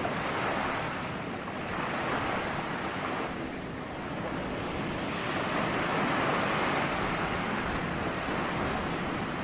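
Ocean surf: waves breaking and washing in as a steady rush that swells and eases, with a bigger surge in the second half.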